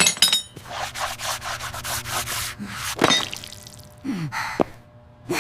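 Rapid, evenly repeated rubbing strokes for about two seconds after a sharp click, then a few falling swishes, over faint background music.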